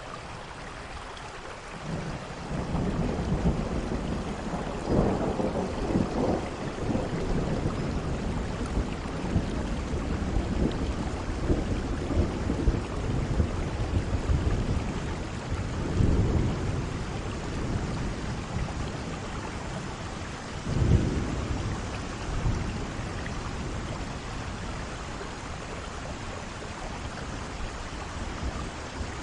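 Heavy rain falling steadily, with thunder rumbling from about two seconds in and swelling several times, the loudest peak about three-quarters of the way through. The thunder fades out near the end, leaving the rain alone.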